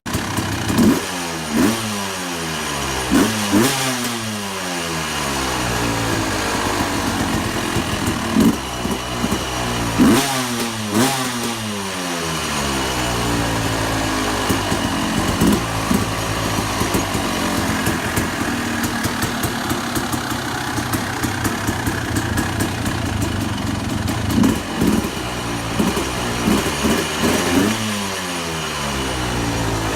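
Yamaha YZ250's two-stroke single-cylinder engine, breathing through a newly fitted Pro Circuit exhaust, idling and being revved in repeated quick blips, its pitch falling back to idle after each one.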